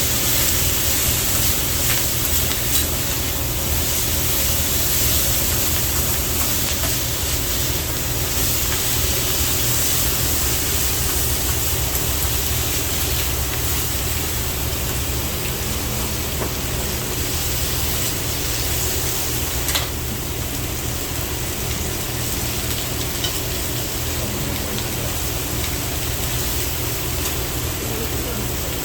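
Pork belly sizzling steadily on a large iron griddle, a continuous hiss over a low steady hum, with a single click about twenty seconds in.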